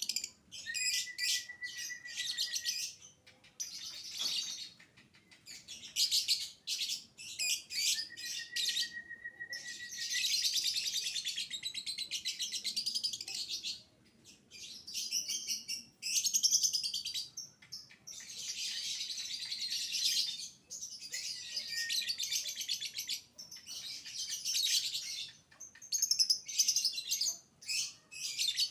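Young lovebird singing fast, high, chattering phrases, some running on for several seconds, broken by short pauses. A thin steady whistle sits under two of the early phrases.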